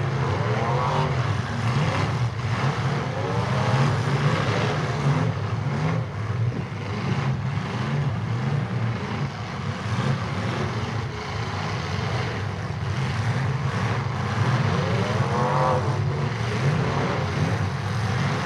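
Several demolition derby cars' engines running together, with engines revving up and down in pitch a few times, near the start, a few seconds in and again near the end.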